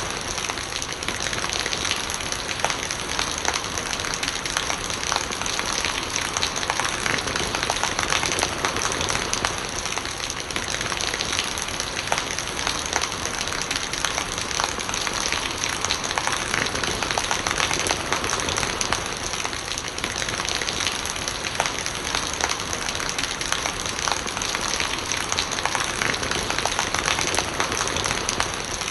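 Steady rain falling, with dense small drop impacts over an even hiss, and rainwater running and gurgling.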